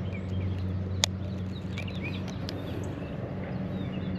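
Outdoor ambience: small birds chirping here and there over a steady low hum, with one sharp click about a second in.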